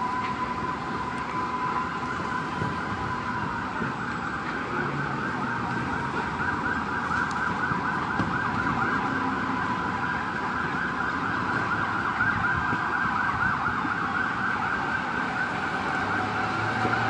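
Emergency vehicle siren sounding in a fast, continuous warble that grows stronger about a third of the way in, with a steady tone beneath it and a noisy background din.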